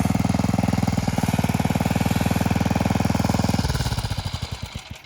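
Small gas engine of a rototiller running steadily, then shut off about three and a half seconds in, its firing slowing and dying away to a stop: the tilling is finished.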